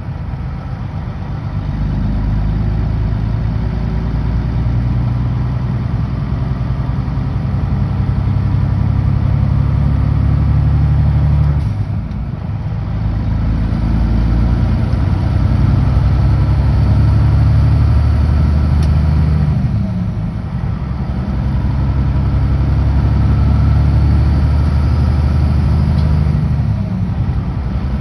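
Kenworth W900L truck's diesel engine running steadily on the highway. The engine note drops briefly about 12 seconds in and again about 20 seconds in, then picks back up.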